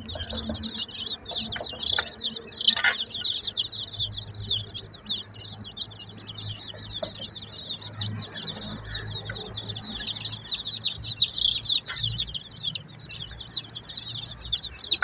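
A brood of chicks peeping without pause: many short, high, downward-sliding cheeps overlapping in a dense chorus. A few sharp taps sound in the first three seconds.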